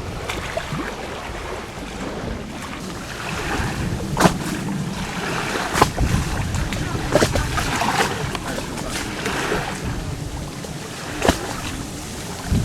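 Small waves lapping, with wind on the microphone and several sharp knocks.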